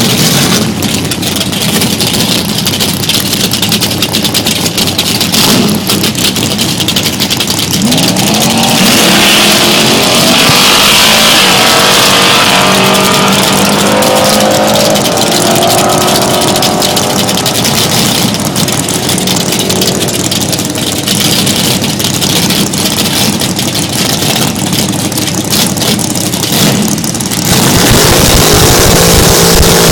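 Drag-racing Dodge Challenger's engine revving and accelerating hard, its pitch climbing in steps from about a third of the way in. A sudden louder, deeper rumble comes in near the end.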